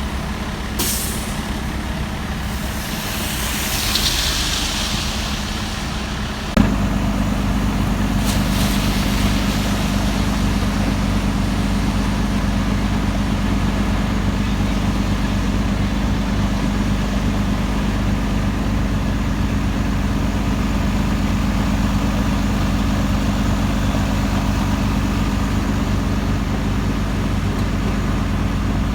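Heavy truck engine running steadily, with short air hisses early on; about six and a half seconds in the engine steps up suddenly to a louder, steady higher-revving run.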